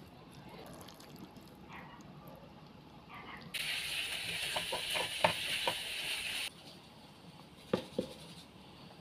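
Chopped pork-ear sisig sizzling in a hot nonstick frying pan for about three seconds. The sizzle starts and stops abruptly, with a few clicks of a spatula against the pan. Two knocks of the spatula follow near the end.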